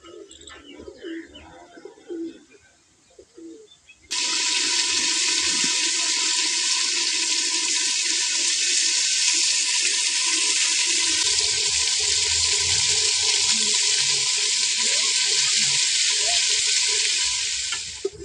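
Chopped tomatoes, green chillies and ginger sizzling in hot oil in an aluminium pot: a loud, steady hiss that starts suddenly about four seconds in and fades out near the end. Faint knocks and handling sounds come before it.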